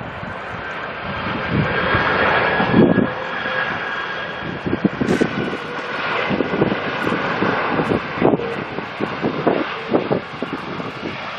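Airliner passing at an airport, its engine noise swelling about two seconds in and staying loud, with a thin high whine that slowly falls in pitch. Wind buffets the microphone throughout.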